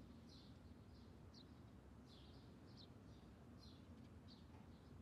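Near silence with faint bird chirps: short high calls repeated irregularly, roughly one or two a second.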